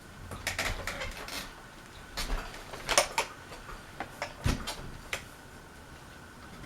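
Scattered clicks and clatters of objects being handled, the loudest about three seconds in, over the steady faint hum of a ceiling fan running on medium speed.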